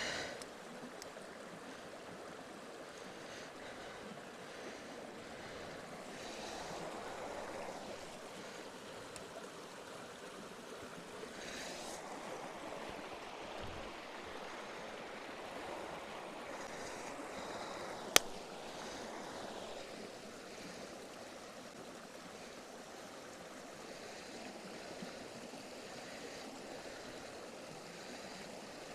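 A stream running steadily, with a little faint rustling and one sharp click about two-thirds of the way through.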